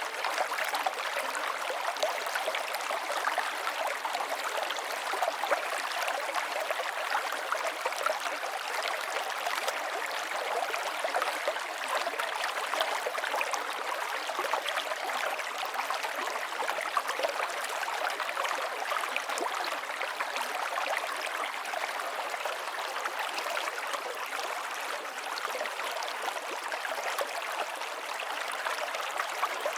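River water flowing steadily over rocks, a constant babbling rush of small splashes and trickles with no pauses.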